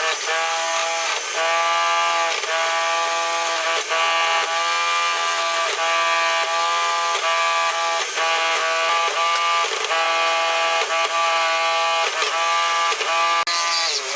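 Small electric motor of a woodworking lathe running at high speed with a steady whine. Its pitch sags briefly and recovers about once a second as the motor is loaded, typical of a cutting tool biting into the work.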